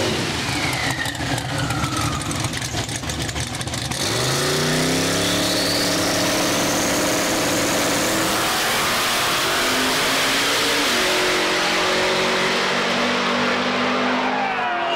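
Drag racing engine under hard acceleration. For the first few seconds there is a rapid crackling with a falling pitch, then the engine climbs in pitch, drops once as it shifts gear and climbs again.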